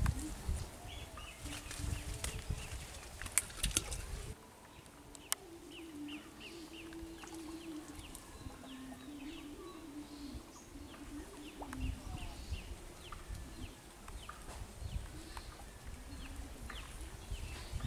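Small birds chirping in short, repeated downward notes, a few a second. Over the first four seconds a low rumble and a few sharp clicks sit under them, stopping abruptly.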